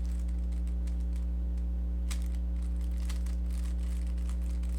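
Rubik's cube being turned quickly through an OLL algorithm: runs of rapid plastic clicks as the layers are flicked round. A steady low electrical hum runs underneath.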